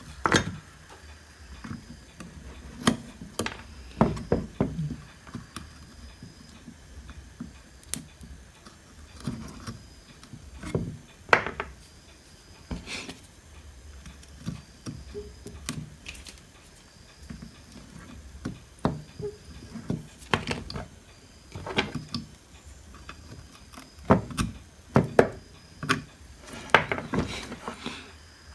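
Irregular clicks and knocks of hand tools working on a circuit board while components are removed from a home theater's power supply board.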